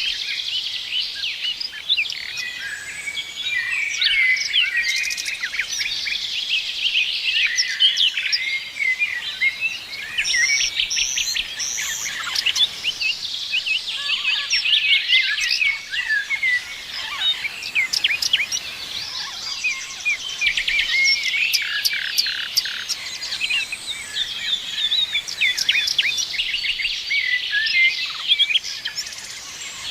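Many small birds chirping and trilling at once, a dense chorus of short high calls.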